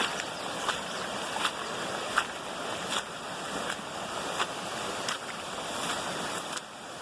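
Rain-fed runoff waterfall rushing steadily. Short sharp clicks come about every three quarters of a second over the rushing.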